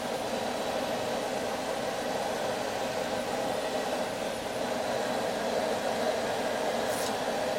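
Blacksmith's forge running, a steady rushing noise of forced air and flame, with a small click about seven seconds in.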